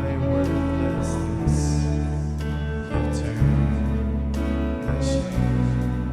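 Church praise band playing slow instrumental worship music: held chords over deep bass notes that change every second or so.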